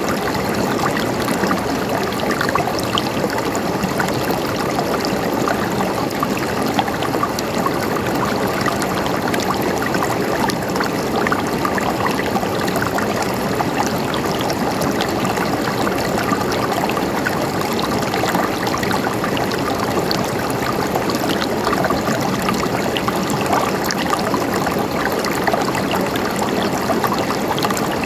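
Mountain stream flowing and gurgling steadily over rocks.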